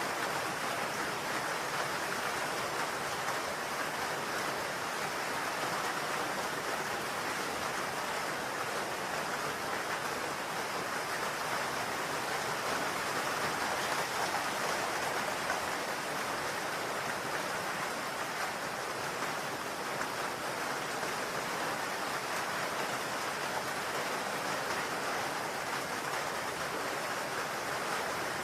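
Steady rain falling on a roof: a continuous, even hiss with no breaks or single loud drops standing out.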